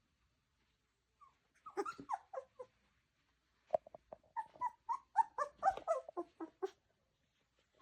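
Labrador puppy vocalising in quick strings of short, pitched calls: a first run about a second in, then a longer, louder run from about four seconds in.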